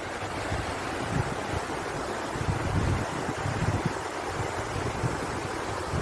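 Waterfall rushing steadily, with wind buffeting the microphone in uneven low gusts.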